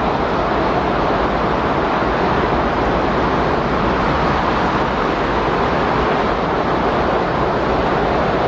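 Steady windstorm noise: an even, unbroken rush of wind with no gusts, breaks or other events.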